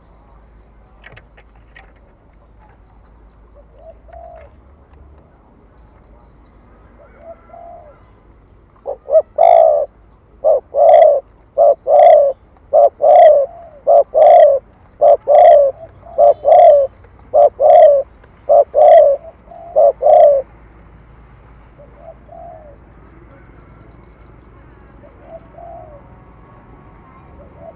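Spotted dove cooing: a fast run of about a dozen loud, evenly spaced coos in the middle stretch, with a few faint single coos before and after.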